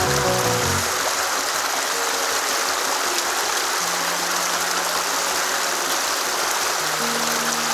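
Headwater mountain stream rushing steadily over rocks.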